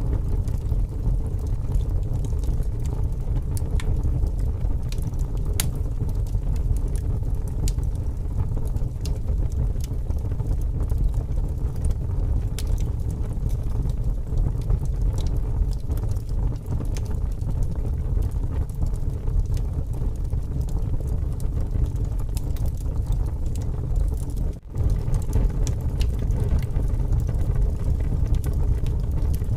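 Wood fire burning in strong wind: scattered sharp crackles and pops from the burning logs over a steady low rumble of wind.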